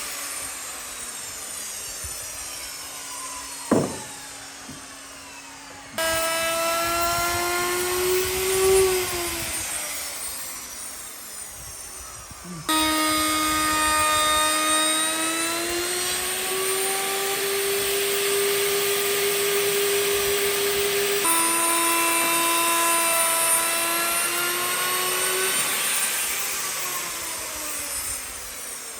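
Handheld electric power tool whining steadily, its pitch sagging and recovering as it bears on the work. The sound changes abruptly a few times and winds down in a falling whine near the start and again near the end.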